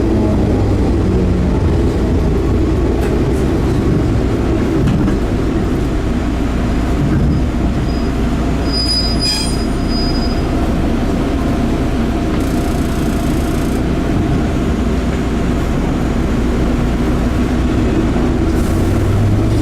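Enshu Railway 30 series electric train running, heard from inside the car: a steady rumble of wheels and running gear, with the traction motor whine falling away in the first couple of seconds and a brief high wheel squeal about nine seconds in.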